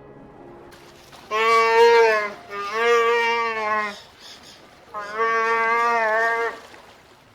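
A goat bleating: three long, wavering bleats in a row.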